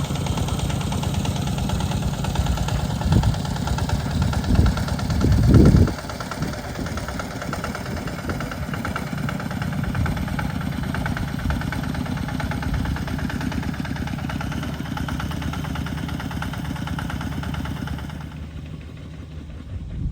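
An engine running steadily, with a louder surge about five to six seconds in, then easing off and fading near the end.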